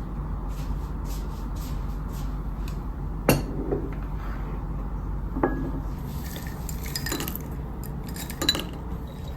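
Dishes and cutlery clinking as tableware is handled, with three sharper knocks and a few light taps over a steady low hum.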